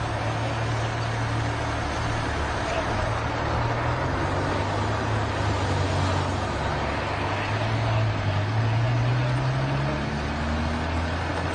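Motor vehicle engine running amid steady road noise, its low hum rising slightly in pitch about eight seconds in.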